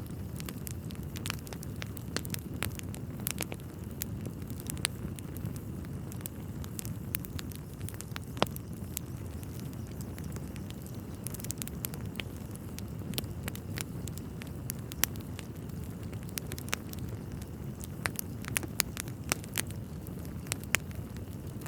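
Wood fire burning in a fireplace: a steady low rush of flames with irregular crackles and sharp pops from the burning logs.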